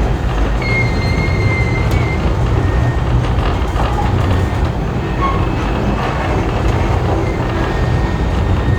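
Passenger carriage running on the rails behind a steam locomotive: a steady low rumble of wheels and running gear, with a brief thin high-pitched squeal about a second in.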